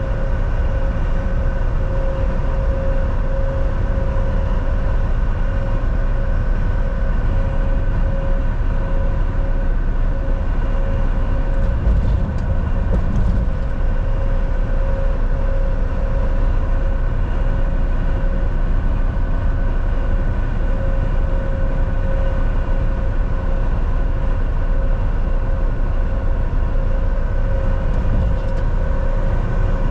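Volvo VNL 760 semi-truck cruising on the highway, heard from inside the cab: a steady low engine and road rumble with a constant droning hum.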